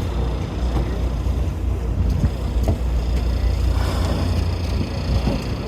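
Steady low rumble of a whale-watching boat's engine.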